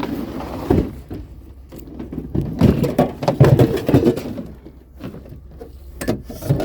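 Irregular clunks, knocks and rustling of objects being handled, loudest and busiest a few seconds in.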